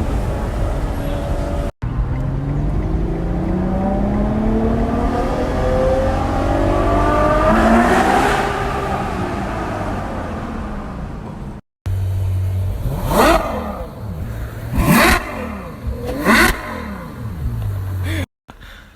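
Ferrari GTC4Lusso's naturally aspirated V12 accelerating, its note rising steadily for about six seconds and then easing off. After a cut, the engine revs sharply three times, each rev climbing and dropping back quickly.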